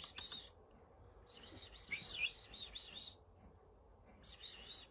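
Budgerigars chattering softly: quick high warbles and chirps in short spells, with quieter gaps between.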